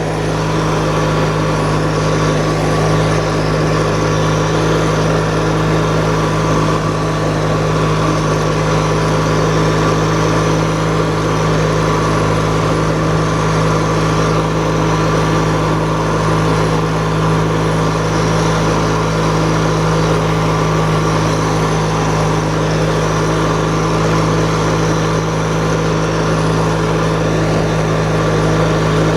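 Riding lawn tractor engine running steadily at high throttle, holding an even speed with no change in pitch.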